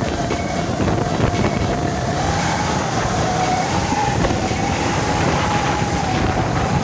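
Heavy truck engine and exhaust running under load: a dense rumble with a steady whining tone that rises slightly about two seconds in.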